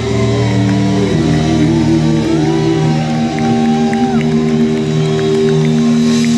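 Live rock band playing, with long held notes sounding over a steady low accompaniment.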